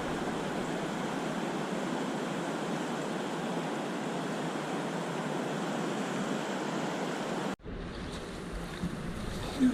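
A steady rushing hiss of wind and moving river water. It breaks off suddenly about seven and a half seconds in, giving way to a quieter rush with a light knock near the end.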